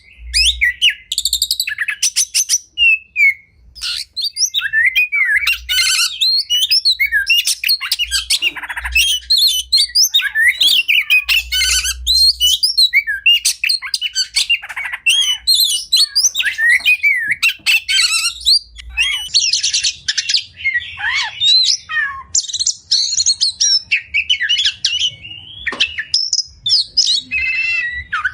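Oriental magpie-robin singing a continuous, fast and varied song of sweet whistles, rapid trills and harsh rasping chirps, one phrase running straight into the next. It is a full-'isian' song of the kind used as a tutor recording to train caged birds.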